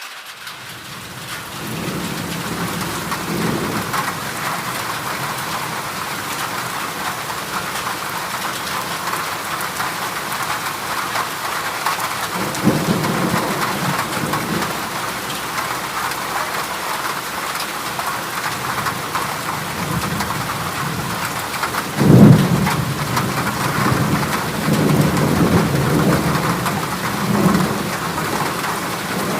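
Heavy rain drumming steadily on a corrugated zinc roof, a dense hiss. Deep thunder rumbles come and go several times; the loudest starts suddenly a little past two-thirds of the way in.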